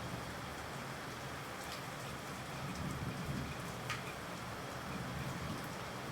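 Steady rain falling: an even hiss, with a few separate drops ticking now and then.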